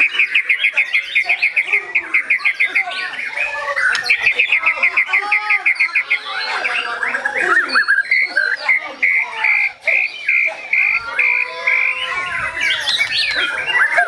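White-rumped shama singing a long, varied song. It has two fast rattling runs of repeated notes in the first six seconds, and a run of evenly spaced, steady whistled notes from about eight to eleven seconds in, mixed with gliding warbled phrases.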